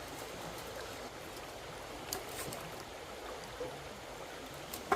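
Steady rushing of flowing stream water, with a few faint clicks about two seconds in.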